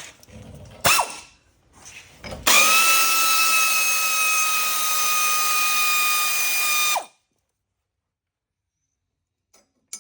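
Cordless power drill-driver running, likely spinning out the brake-line bracket bolt: a brief trigger pull about a second in, then a steady high whine for about four and a half seconds that stops abruptly.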